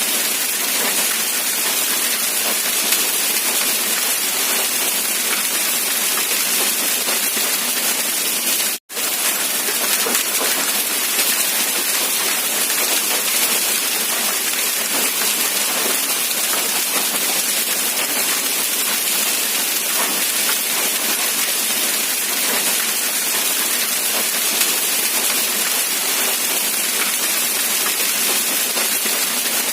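Steady rain, an even dense hiss, briefly cutting out for a split second about nine seconds in.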